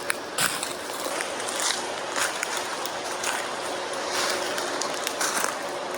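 River water rushing and splashing, running high after a typhoon: a steady, even rush with small splashes throughout.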